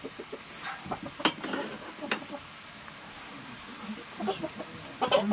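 Green vegetables frying quietly in an iron karahi over a wood fire, a low steady hiss, with two sharp clicks about one and two seconds in and a faint voice near the end.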